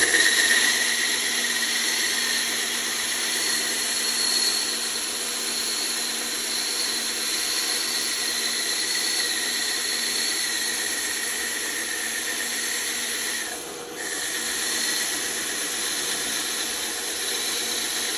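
Band saw running steadily while cutting wood: an even hiss with a high whine over it. It dips briefly about fourteen seconds in, then carries on.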